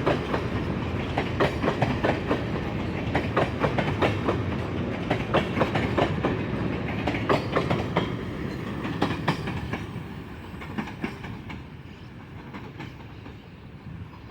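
Freight train wagons rolling past, their wheels clicking and clattering over the rail joints over a steady rumble; the sound fades away from about two-thirds of the way through as the end of the train passes.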